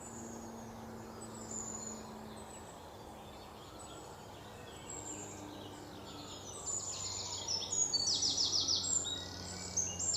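Birds chirping, with fast trills that grow louder in the last few seconds, over a steady low hum.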